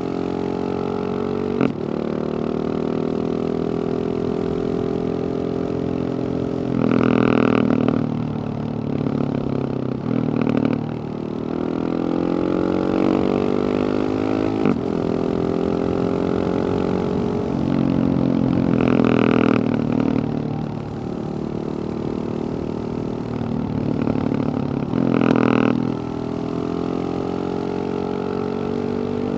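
Husqvarna 701 supermoto's single-cylinder engine through a Wings aftermarket exhaust, its revs climbing slowly and dropping back again and again, with four louder blips of throttle and a few sharp clicks between the pulls.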